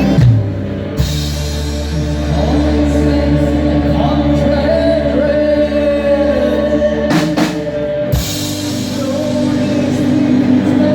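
A band playing live with singing, held pitched notes sounding throughout. There are sharp drum-like hits about a second in and again just after eight seconds.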